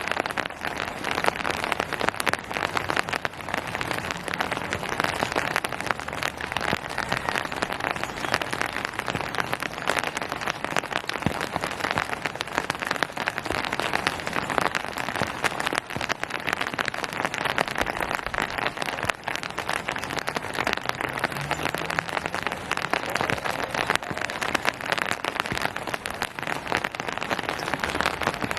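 Steady rain falling on surfaces: a dense, even patter of many raindrops.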